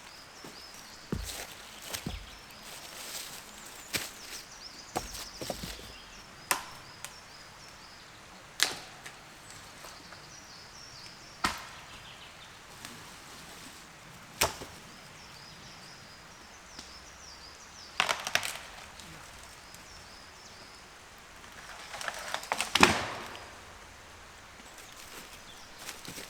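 Wood being chopped, single strikes a few seconds apart, with one louder, longer crunching blow near the end.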